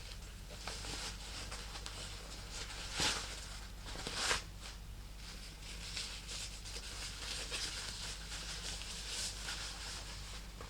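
Close-miked handling of a silk purse: soft rustling and scratching strokes, with two louder rustles about three and four seconds in.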